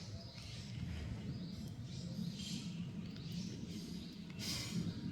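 Japanese tree frogs calling: short high calls repeating at uneven intervals, the loudest near the end, over a low steady rumble.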